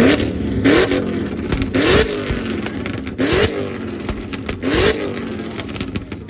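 Car engine on a two-step launch limiter, revved in about five short blips, each rise ending in a burst of popping and crackling from the exhaust.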